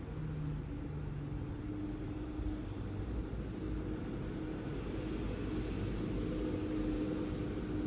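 BMW M1000RR's 999 cc inline-four idling steadily through an Akrapovič exhaust, with a low, even note.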